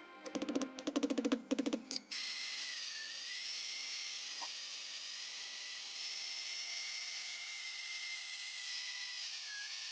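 About two seconds of rapid, sharp clicking strikes, then a high-speed power grinder running steadily with a high whine and hiss. The pitch dips slightly now and then, as when the tool is loaded against the steel of a knife blade.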